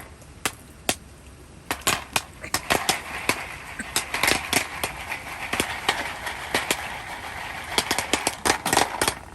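Popcorn kernels popping in a pan over heat: irregular sharp pops over a steady sizzle, a few at first and then coming faster toward the end.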